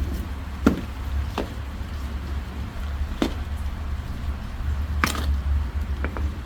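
Steady low rumble with a handful of sharp knocks and clunks spaced a second or two apart.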